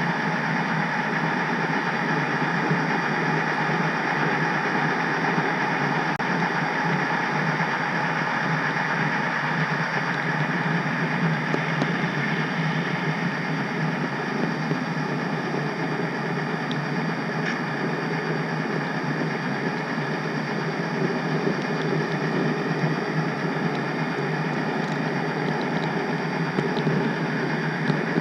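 HO scale model train running along the layout track, a steady unbroken rolling and mechanical whir heard from a camera riding on the caboose.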